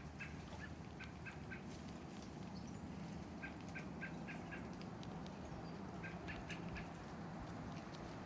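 Small bird calling: short chirps in quick runs of three to five notes, three runs in all, over a low steady background hum.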